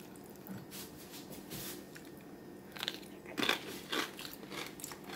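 A person biting into and chewing a crunchy chip loaded with guacamole: irregular crunches, louder and more frequent from about three seconds in.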